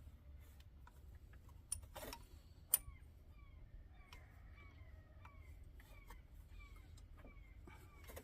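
A few sharp metal clicks and clinks of hand tools on the engine about two seconds in, the sharpest near three seconds. From about halfway, a run of short, falling high chirps from an animal repeats about twice a second.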